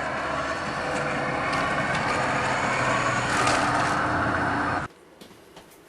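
Steady motor or vehicle running noise that cuts off suddenly about five seconds in.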